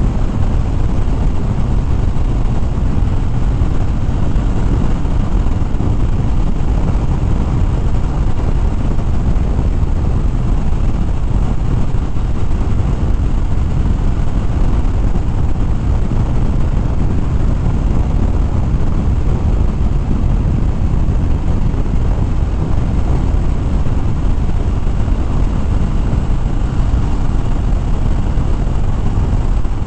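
Harley-Davidson Fat Bob's V-twin running steadily at road speed, heard through a dense, steady rumble of wind on the rider's microphone.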